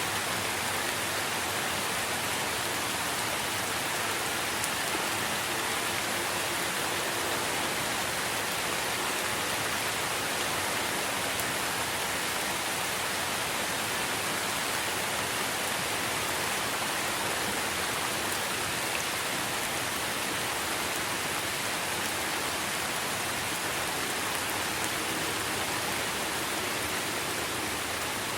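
Steady rain falling on tree foliage: an even, unbroken hiss with a few sharper drop ticks scattered through it.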